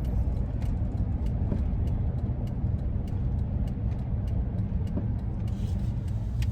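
Inside the cab of a 2001 Ford E-350 van while it is driving: steady engine and road rumble.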